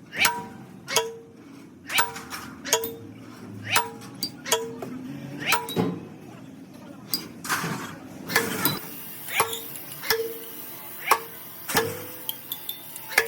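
Hammer striking metal again and again, about one and a half blows a second, each blow leaving a short metallic ring.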